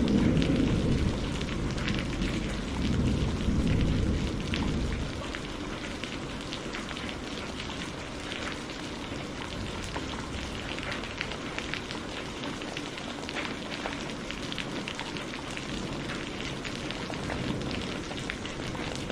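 Steady heavy rain, full of fine close drop ticks. A deep thunder rumble fades away over the first five seconds, leaving only the rain.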